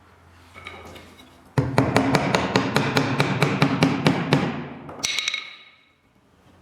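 Rapid knocking of a hand tool on wood, about seven strikes a second for some three seconds, then a brief second flurry with a short ring.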